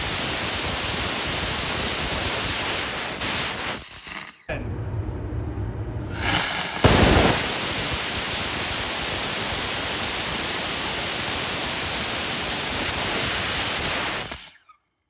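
Small ethanol/oxygen liquid-propellant rocket engine firing on a test stand, a steady loud hissing rush of exhaust. The first burn dies away about 4 seconds in; after a brief lower rush a second firing lights with a loud surge around 6–7 seconds in, burns evenly, and cuts off abruptly near the end.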